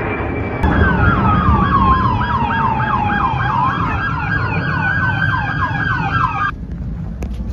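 Emergency vehicle sirens: a fast yelp and a slower wail that falls and rises, sounding together. They start a little under a second in and cut off suddenly near the end.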